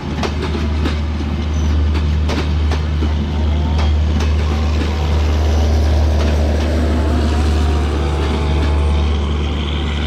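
Passenger train coaches rolling along the rails, their wheels clicking over the rail joints in the first few seconds, over a steady low rumble. The clicks thin out as the end of the train moves away.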